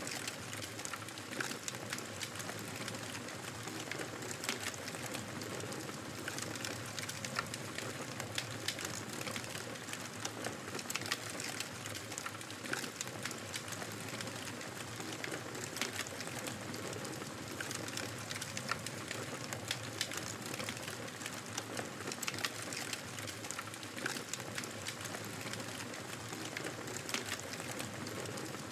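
Wood fire burning in a fireplace: a steady hiss with frequent irregular crackles and pops.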